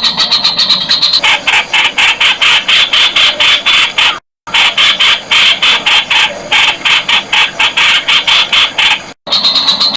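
Streak-eared bulbul calls: a fast, continuous run of sharp, chattering notes, about six or seven a second. It cuts abruptly to dead silence twice, about four and nine seconds in.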